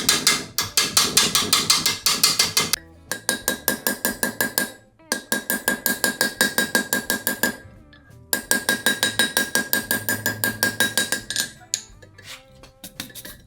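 Hammer blows on iron at the anvil in a fast, even rhythm of about four to five strikes a second, each with a metallic ring. The blows come in four runs separated by short pauses, and give way to a few lighter clinks near the end.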